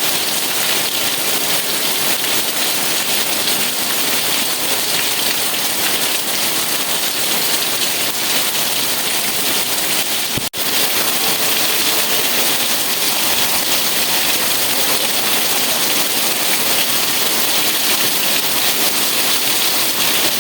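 Steady rain, an even hiss with most of its energy high up, broken by a split-second dip in level about halfway through.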